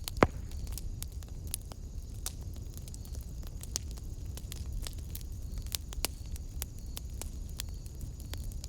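Wood fire in a fireplace, crackling with scattered sharp pops over a low, steady rumble of the flames. One loud pop comes just after the start.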